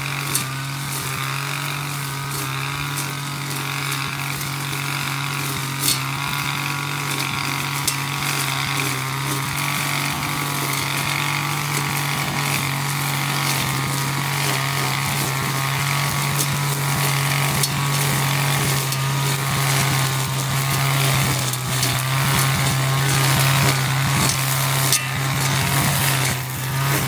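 25 cc two-stroke brush cutter engine running steadily at cutting speed as it mows grass, with a few sharp ticks of debris striking the cutter.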